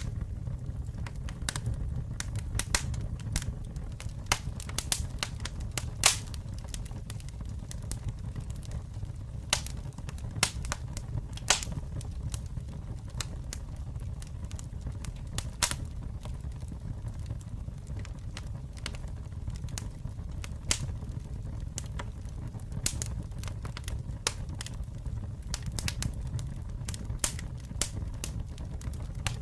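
Campfire burning with a steady low rumble of flames and frequent sharp crackles and pops from the wood, a few louder snaps standing out.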